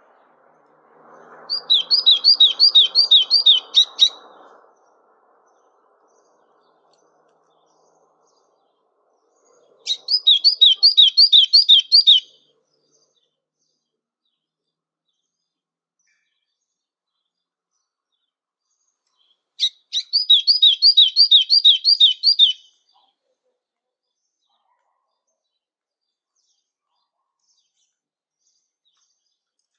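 A songbird singing three short phrases about ten seconds apart, each a quick run of about eight repeated high, down-slurred whistled notes.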